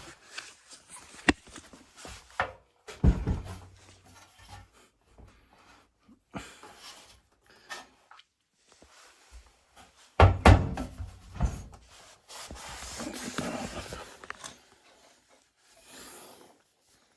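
Handling sounds from taking apart a washing machine: scattered knocks and clicks of its plastic and metal parts, with heavier thumps about a second, three seconds and ten seconds in, then a scraping rub for a couple of seconds.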